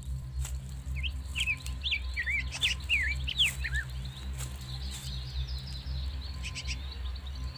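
A bird calling a quick run of short, sweeping chirps from about one to four seconds in, over a steady low rumble and a few faint clicks.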